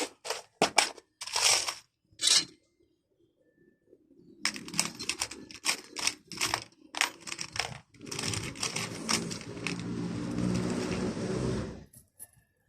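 Clicks and clattering of small metal parts being handled during a car window-regulator cable repair. About eight seconds in, a steady mechanical whirring sets in, runs for about four seconds and stops abruptly.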